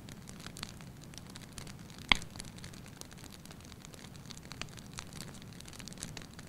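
Wood fire burning in a fireplace: steady soft rumble with scattered small crackles and one sharp, loud pop about two seconds in.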